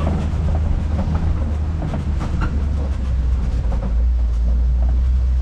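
Open-sided safari ride truck driving over a rough track: a steady low engine and road rumble with scattered rattles and knocks from the vehicle body.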